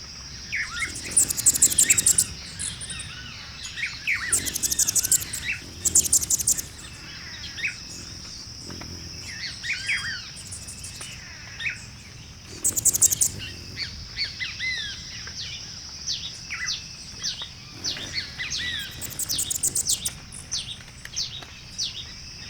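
A mixed chorus of songbirds: many short chirps and slurred whistled notes from several birds, broken by bursts of a very high, fast trill, over a steady high-pitched drone.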